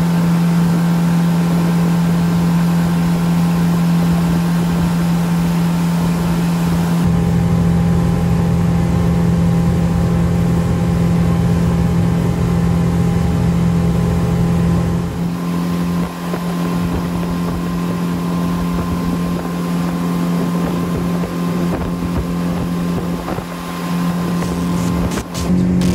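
Tohatsu MFS 140 four-cylinder four-stroke outboard running at high revs, about 5000 to 5400 rpm, driving the boat at planing speed. A loud, steady drone with wind rushing past, its tone shifting slightly about halfway through.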